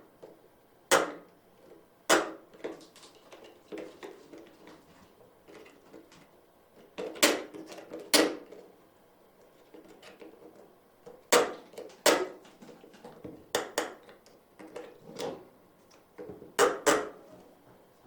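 Hard toys being knocked and banged about: a dozen or so sharp clacks at irregular intervals, some in quick pairs.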